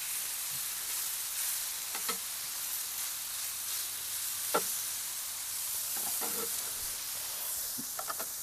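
Diced marinated chicken sizzling in oil on the griddle plate of a portable gas grill. A metal spatula scrapes and taps on the plate a few times as it turns the pieces, most sharply about halfway through.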